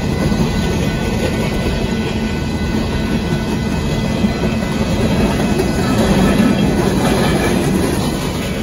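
Coal train's hopper cars rolling past a grade crossing: a steady rumble with the clatter of steel wheels over the rails.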